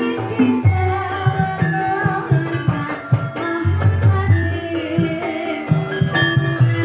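Live ebeg dance accompaniment: kendang hand drums beating a steady pattern under held melodic lines from the ensemble.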